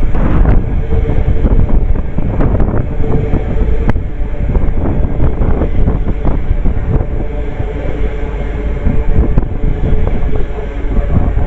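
A train running through the station with a steady tone and repeated clicks, under heavy wind buffeting the microphone.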